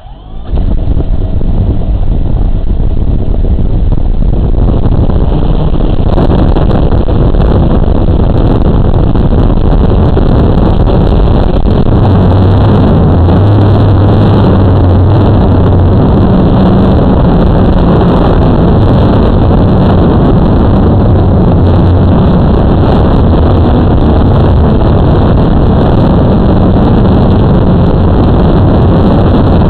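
Blade 350 QX2 quadcopter's electric motors and propellers running in flight, mixed with wind rushing on the microphone; loud and steady throughout.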